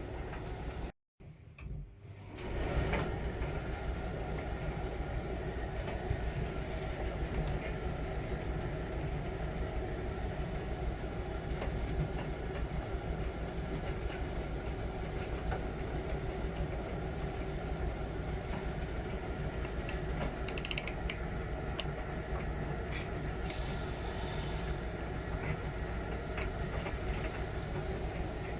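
Miele Novotronic W921 front-loading washing machine running early in its wash cycle: a steady motor hum and drum rumble, cut out briefly about a second in.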